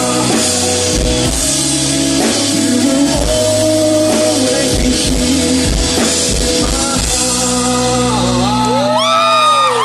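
Live rock band playing with drum kit, guitar and singing, heard from within the audience. About nine seconds in the band's low end cuts out as the song finishes, and the crowd starts whooping and cheering.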